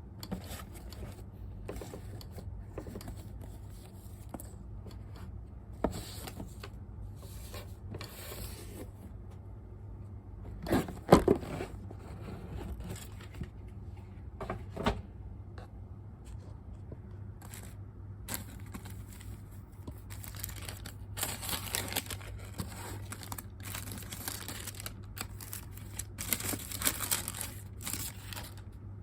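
Unboxing handling noise: paper and packaging rustling and crinkling, with two sharp knocks partway through, the first the loudest, over a steady low hum.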